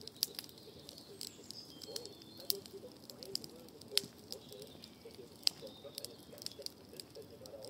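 Wood fire of pruned shrub branches crackling in a fire bowl: sharp, irregular pops and snaps, a few louder ones standing out, over a steady low hiss.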